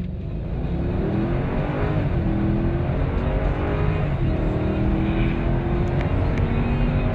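Mercedes ML500's 5.5-litre V8 accelerating hard from a standstill, its note climbing in pitch through the gears and dropping back at upshifts about two and four seconds in.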